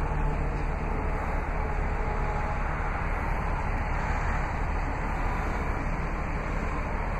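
Hummer H2's 6.0-litre Vortec V8 idling steadily through its Flowmaster exhaust, an even low rumble.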